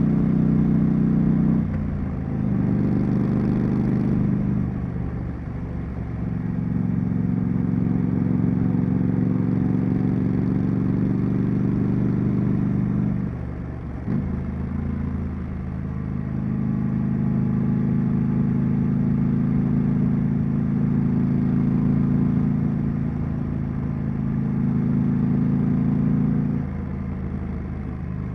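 Triumph Street Scrambler's 900 cc parallel-twin engine and exhaust on the move. It holds steady revs for long stretches, and the note drops and picks up again a few times, about four times in all.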